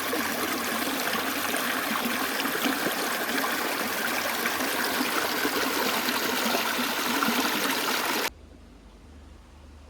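Creek water running in a steady, loud rush, which cuts off abruptly about eight seconds in, leaving only a faint low hum.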